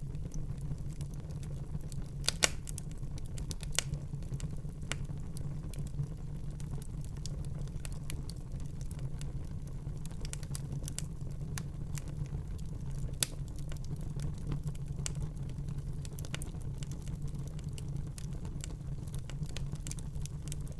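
Wood fire burning in a fireplace: irregular crackling with scattered sharp pops over a low steady rumble of the flames, the loudest pops about two and a half seconds in and again around thirteen seconds.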